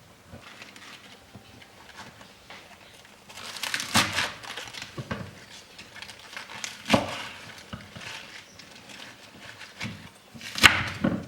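Close-up handling noises: rustling and crinkling, with sharp clatters about four, seven and ten and a half seconds in, the last the loudest.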